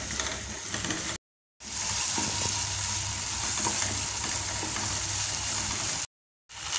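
Chopped onion, garlic and ginger with tomato ketchup sizzling in oil in a non-stick kadai over high flame, stirred with a wooden spatula that scrapes lightly now and then. The sound cuts out completely for a moment twice, about a second in and near the end.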